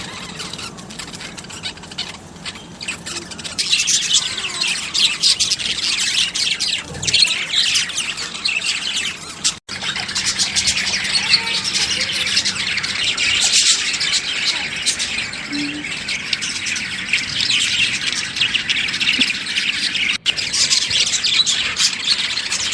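Many small birds chirping together in a dense, continuous chorus, broken by two brief dropouts, about ten seconds in and near the end.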